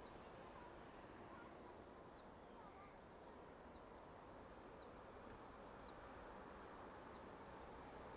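Faint outdoor quiet with a bird repeating a short, high call that slides downward, about once a second.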